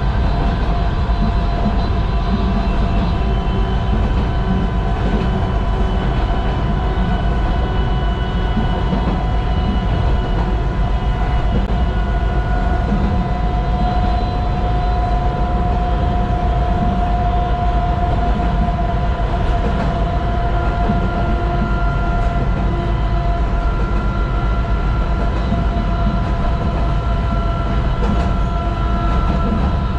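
Sangi Railway Hokusei Line narrow-gauge (762 mm) electric train running along the line, heard from inside the cab. There is a steady low rumble of wheels on rail, overlaid by a steady whine of several pitches that drift slightly.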